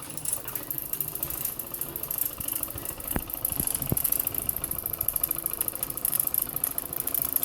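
Fleischmann 120/1 toy live steam engine, an oscillating (wobbler) engine, running with a fast, even mechanical chatter over a steady high hiss. A few sharp clicks come about three to four seconds in.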